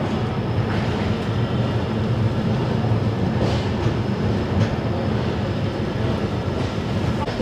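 Passenger train coach in motion, heard from on board: a steady rumble of the running gear with a few faint clicks of the wheels over rail joints.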